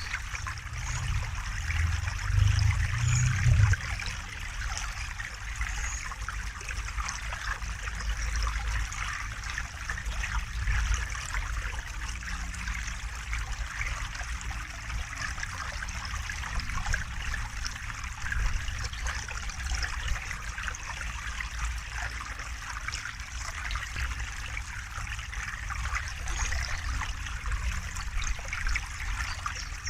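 River water flowing and trickling steadily over stones, with a low rumble underneath that swells for a few seconds near the start.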